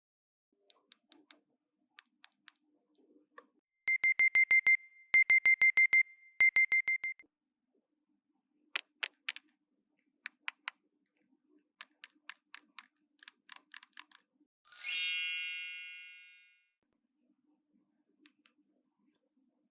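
Three runs of rapid, high electronic beeping, each about a second long, from a toy's beeper, among small sharp plastic clicks. About fifteen seconds in, one bright ringing chime sounds and fades over about two seconds.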